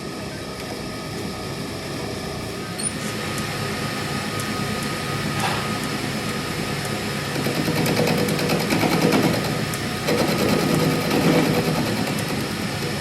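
A workshop machine or power tool running steadily with a fast rattle, growing louder over the last few seconds.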